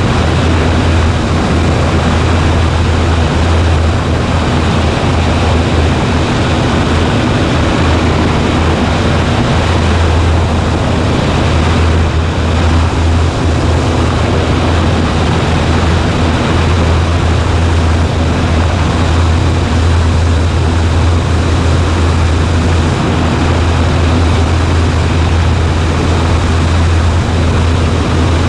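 Cessna 140A's single piston engine and propeller droning steadily in flight: a constant low hum under a dense wash of airflow and engine noise, with no change in pitch or level.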